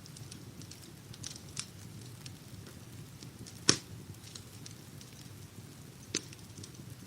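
Wood fire burning in a fireplace, crackling with scattered small ticks over a steady low rumble, broken by a few sharp pops, the loudest a little past halfway.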